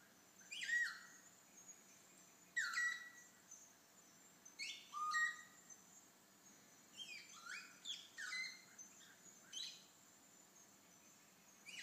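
Female vasa parrot singing: a series of about nine whistled calls, each sliding steeply down from high pitch into a short held note, spaced a second or two apart. This is her breeding-season song, which draws in the males.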